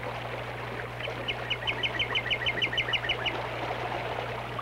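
A bird calling a quick, even run of about a dozen short, high notes over roughly two seconds, starting about a second in, over the steady rush of flowing stream water.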